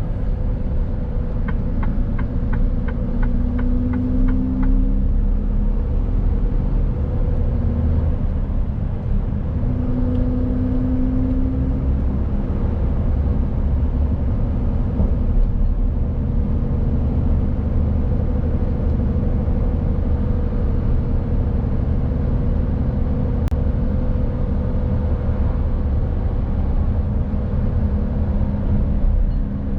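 Mercedes-Benz Actros truck on the move: a steady low engine and road rumble with a faint steady hum. A short run of light ticks, about three a second, comes in the first few seconds.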